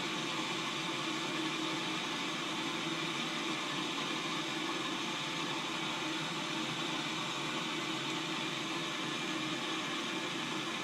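Steady, even hiss with no change in level or pitch.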